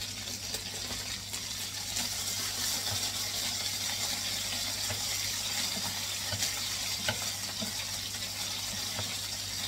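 Chicken breast pieces sizzling steadily in oil in a nonstick frying pan, with scattered light taps and scrapes of wooden spatulas as the pieces are turned.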